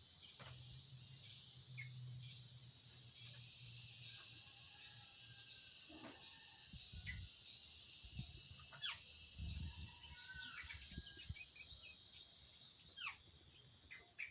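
Oriental magpie-robin (kacer) calls: short, scattered falling notes over a steady high-pitched hiss, with a few low thumps in the middle.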